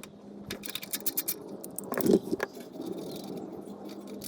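Ratchet on a 14 mm socket clicking as the oil pan drain plug is loosened, then a clatter as the plug comes free, followed by a steady patter of engine oil draining into the drain pan.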